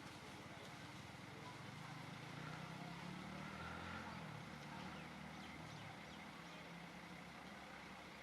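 Faint low engine hum from a motor vehicle, swelling about two to four seconds in and then easing off, over a quiet outdoor background.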